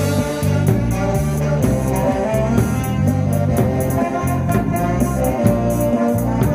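Live band playing a Korean trot medley, instrumental, with a steady dance beat, a moving bass line and a held melody line.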